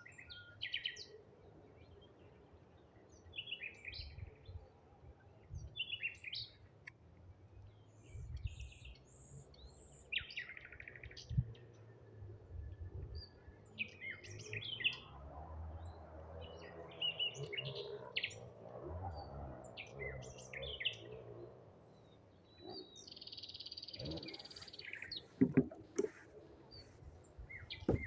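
Songbirds in a forest singing and calling: short chirped phrases every second or two, several birds at once, over a low rumble. A couple of sharp knocks come near the end.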